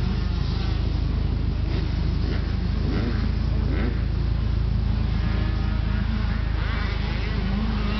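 Motocross dirt bike engines revving, their pitch rising and falling a few times around three to four seconds in, over a steady low rumble.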